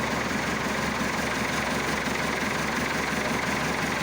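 Massey Ferguson Super 90 diesel tractor engine idling steadily on a cold start.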